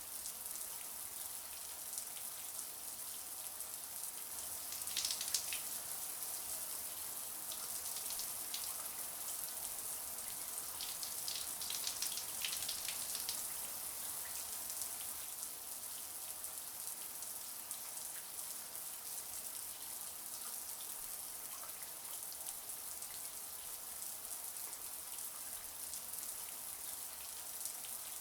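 Shower running: a steady hiss of spraying water, with brief louder spatters about five seconds in and again around twelve seconds in.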